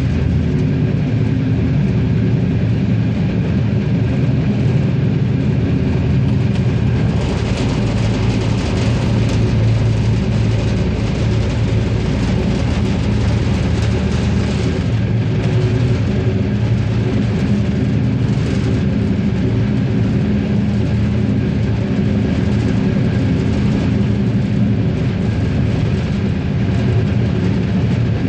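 Regio-Sprinter diesel railcar running along the line, heard from on board: a steady engine drone with the noise of wheels on rail, a little brighter from about seven seconds in.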